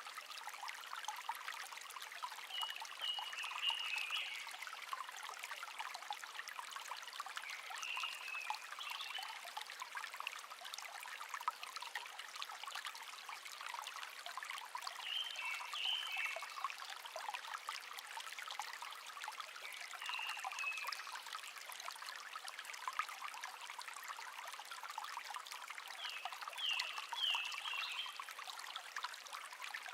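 Shallow stream trickling and babbling over stones, with a songbird singing short chirping phrases about every five or six seconds, five times in all.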